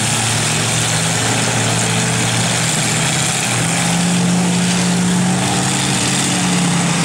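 Derby trucks' engines running hard together: a loud, steady mix of engine noise with no clear crash in it.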